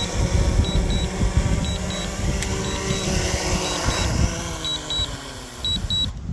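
Mavic 2 Pro quadcopter's propellers whining in strong wind, the pitch sliding lower about four seconds in, with wind buffeting the microphone. Pairs of short high beeps repeat about once a second.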